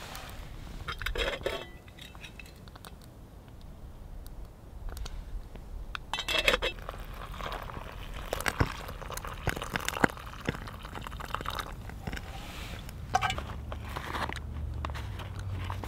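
Freeze-dried meal pouch being handled and filled: the foil pouch crinkles, hot water is poured into it from a pot about halfway through, and near the end a long-handled spoon stirs inside the pouch, with scattered clicks and rustles throughout.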